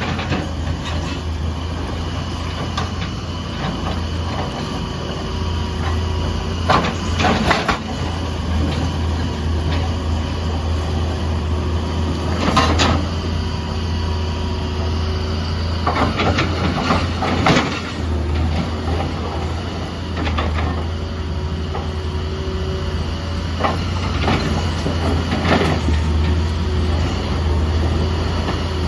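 Excavator's diesel engine running steadily, with irregular loud metallic clanks every few seconds.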